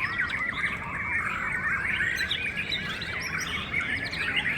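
Many caged white-rumped shamas singing at once: a dense, unbroken chorus of overlapping whistles and chirps.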